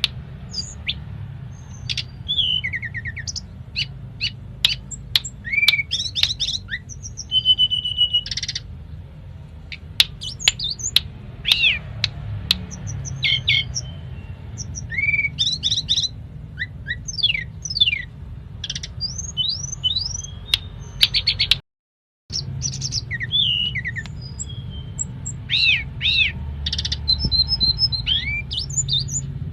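A tledekan gunung singing in full, its song filled with mimicked phrases: a rapid, varied run of chirps, rising and falling whistles and sharp ticks over a steady low hum. The sound cuts out completely for a moment about three-quarters of the way through.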